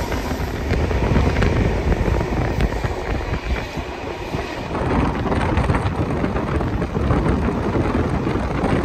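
Passenger train running at speed, heard from an open carriage window: a steady rumble of wheels on the rails with rapid clattering clicks, getting somewhat louder about halfway through.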